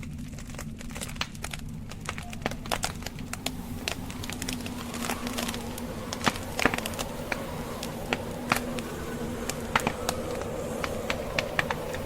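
Burning logs crackling with frequent sharp pops, a few louder ones past the middle, over a steady low rush of snowstorm wind.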